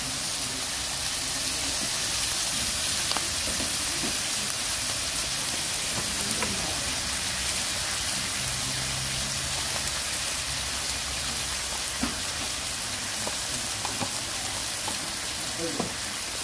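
Chopped eel pieces sizzling steadily as they stir-fry in a wok, with a few faint scrapes and ticks of the spatula.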